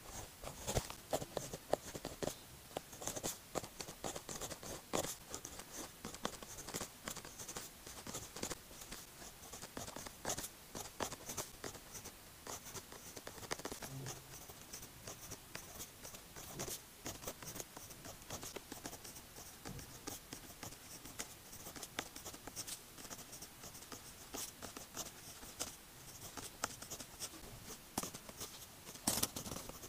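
Pilot pen nib scratching on paper in quick short strokes and light ticks: Chinese characters being written by hand.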